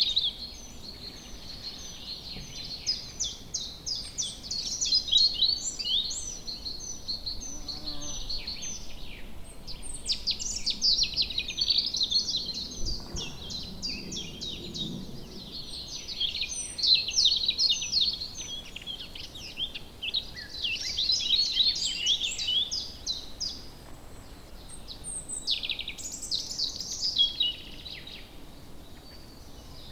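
Several songbirds singing in woodland, overlapping phrases of rapid chirps, trills and high short notes, with a faint background hiss.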